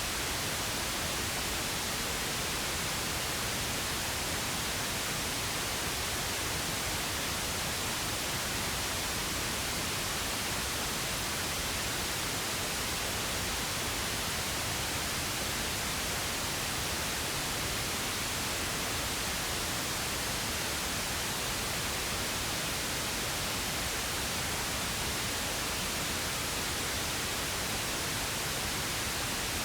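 Steady pink noise: an even, unchanging hiss with no events or variation.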